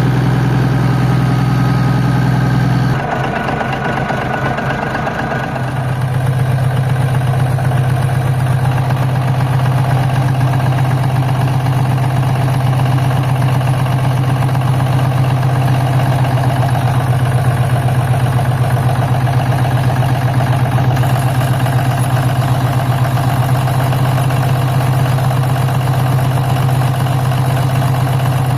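Heavy diesel engine idling steadily. Its sound changes abruptly about three seconds in and settles back to an even idle a few seconds later.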